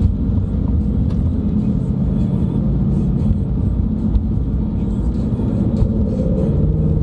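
Steady engine and tyre rumble of a moving car, heard from inside the cabin.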